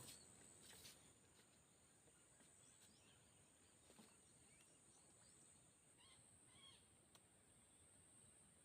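Near silence: faint outdoor ambience with a few faint bird chirps, about four and six seconds in, over a steady high whine.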